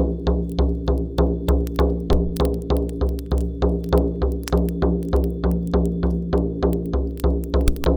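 Shamanic frame drum music: a steady, fast, even drumbeat with deep booming strikes over a sustained low drone.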